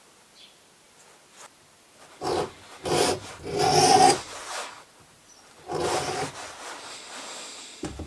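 Leather edge beveler scraping along the edge of thick leather in about four strokes, each roughly half a second to a second long, with a short fifth stroke near the end.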